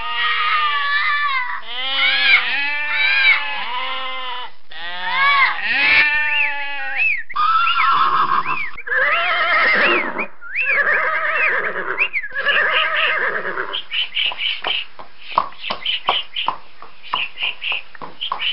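A string of animal calls: pitched cries that rise and fall, about one a second, changing in kind about seven seconds in. In the last few seconds the calls give way to quick, even clicking.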